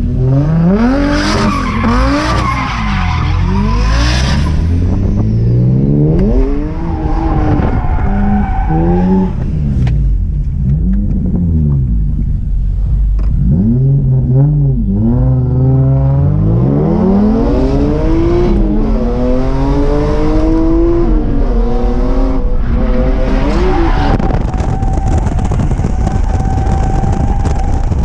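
BMW E46 M3's S54 inline-six engine revving up and down over and over while drifting, with tires squealing in long steady tones, most clearly near the start, around a third of the way in and through the last few seconds.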